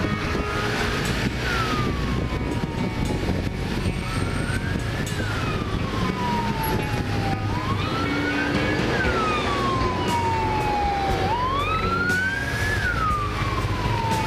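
An emergency vehicle's wailing siren: four cycles, each rising quickly and falling slowly. Underneath is the steady low drone of motorcycle and traffic noise.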